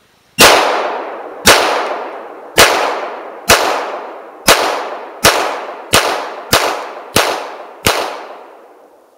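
Ten shots from a .45 ACP pistol, about a second apart at first and coming faster toward the end, each followed by a long echoing tail.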